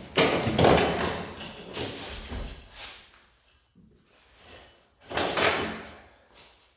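BMW X3 rear seat being pulled loose from the car body: scraping and knocking of the seat against plastic trim and metal, in two bouts, a long one at the start and a shorter one about five seconds in.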